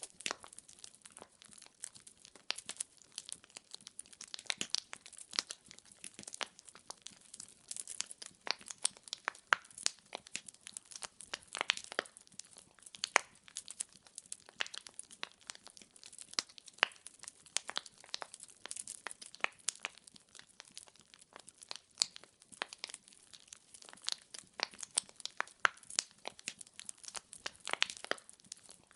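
Wood fire burning, with dense, irregular crackling and popping of the burning logs over a faint hiss.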